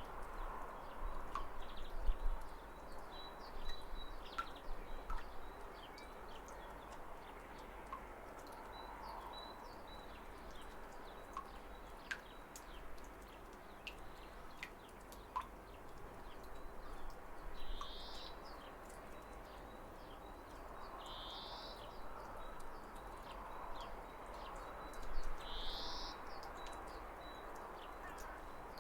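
Steady rush of a waterfall with birds chirping over it: short high chirps scattered throughout and three louder brief calls in the second half.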